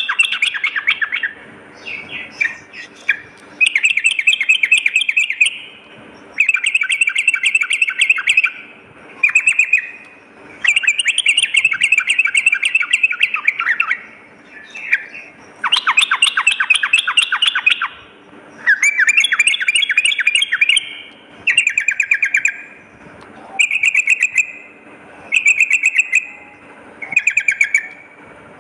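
Yellow-vented bulbul (trucukan) singing repeated phrases of fast, chattering notes, each phrase about one to two seconds long with short pauses between them.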